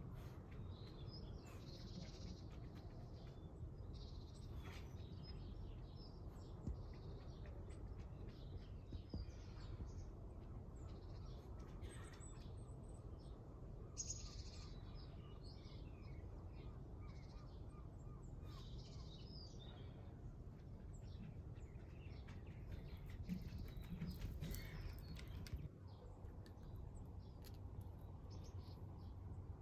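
Birds chirping on and off, in short high calls, over a low steady rumble.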